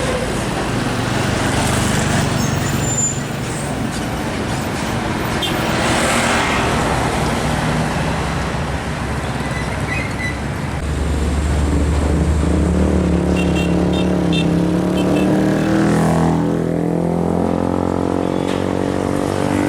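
Road traffic with heavy diesel trucks passing. About halfway through, one truck's engine grows loud and close, and its pitch drops as it goes by.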